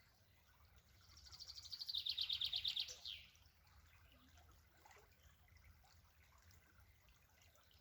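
A songbird singing once, about a second in: a rapid trill of high repeated notes that grows louder and steps down in pitch, ending with a quick downward flourish, over faint outdoor background noise.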